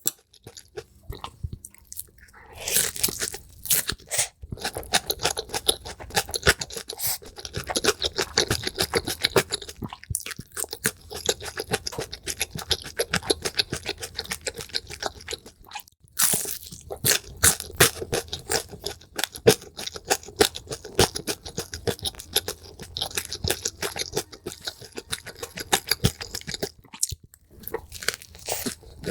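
Close-miked chewing and crunching of food, sped up, with rapid crisp crunches and a few brief breaks.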